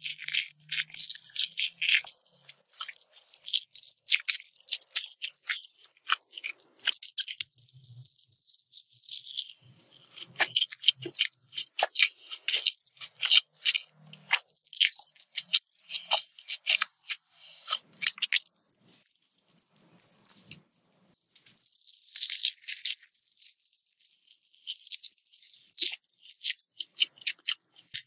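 Close-miked chewing of crunchy food: dense runs of sharp, crisp crackles and crunches, with a short lull about two-thirds of the way through.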